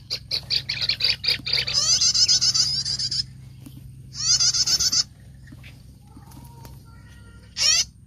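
Loud, rapid chattering bird calls of kerak basi birds that cut off abruptly about three seconds in, fitting a lure recording being switched off. Two shorter bursts of the same calls follow, one near the middle and one near the end.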